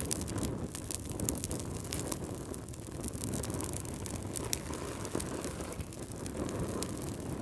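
Fireplace fire crackling: a steady low rumble of flames with frequent, irregular sharp pops and crackles.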